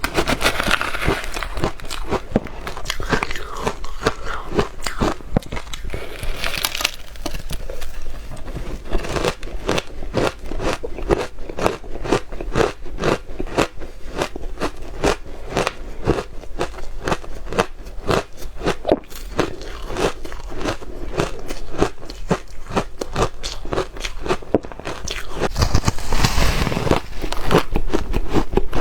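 Close-up crunching of soft ice being bitten and chewed: a rapid, continuous run of crisp crunches, getting louder near the end.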